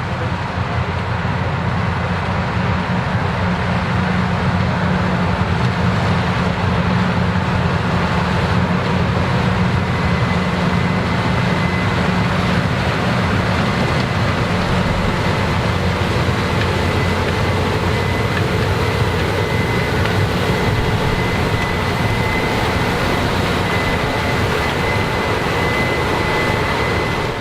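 Combine harvester running at full work close by, harvesting corn: a loud, steady engine and threshing drone with a high whine that comes in about ten seconds in and holds. It cuts off suddenly at the end.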